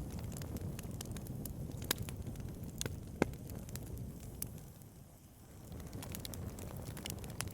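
Wood fire burning in a fireplace: a low steady rumble of flames with scattered sharp crackles and pops from the burning logs, the loudest pop about three seconds in. The rumble dips briefly around five seconds in.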